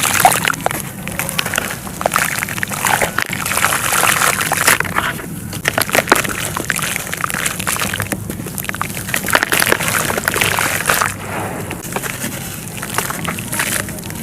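Dry crumbly material, clay or charcoal, being crushed and crumbled by hand: a steady, dense crackle of many small cracks and grains, easing briefly about 5, 8 and 11 seconds in.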